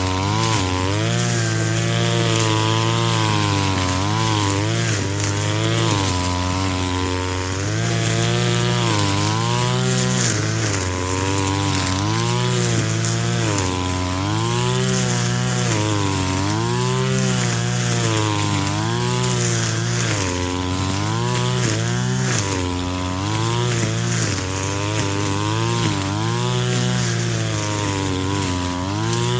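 Two-stroke brush cutter running at full throttle while cutting grass, its pitch dipping and recovering every second or two as the cutting head takes load.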